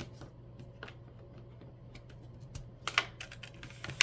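Sheet of paper being folded and creased by hand: scattered light clicks and crinkles, with louder crisp crackles about three seconds in and again at the end.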